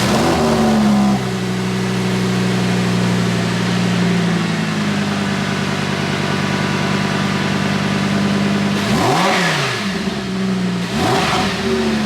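Lamborghini Huracán's V10 engine, just started through a newly fitted Vivid Racing aftermarket exhaust, running at a fast idle that drops a little about a second in. Near the end come two short throttle blips, each rising and falling in pitch.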